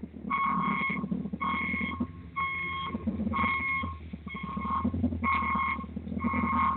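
Electronic warning beeper sounding a steady tone about once a second, each beep about half a second long, over a low steady hum.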